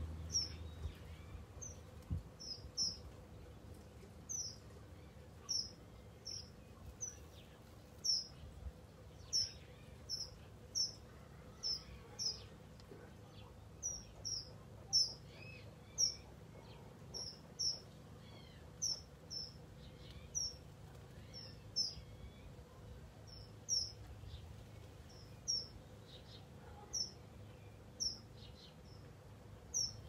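A bird calling with short, high chirps, each dropping quickly in pitch, repeated about once or twice a second.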